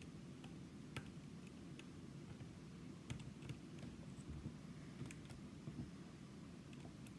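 Light, irregular metallic clicks of a lock pick and tension wrench working inside a Sargent Signature lock cylinder, about a dozen scattered ticks over a faint low hum.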